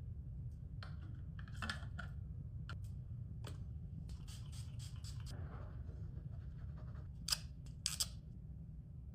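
Small clicks, taps and short scraping rustles of objects being handled, with two louder sharp scrapes near the end, over a steady low hum.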